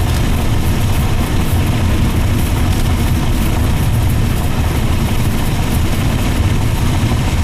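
Steady low rumble of road and engine noise heard inside a car's cabin as it drives at highway speed.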